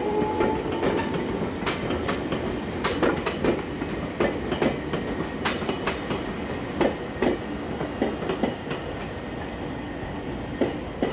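JR East 185 series ten-car train rolling slowly into the station, its wheels clicking and knocking irregularly over rail joints and points. A brief wheel squeal dies away in the first second, and the train gradually quietens as it slows.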